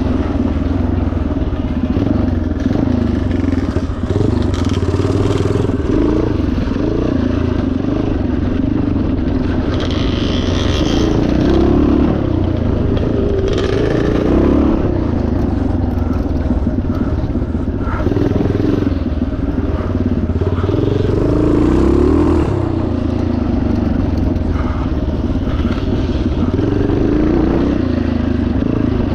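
Yamaha TT500's single-cylinder four-stroke engine running under constantly changing throttle, with occasional clattering and scraping.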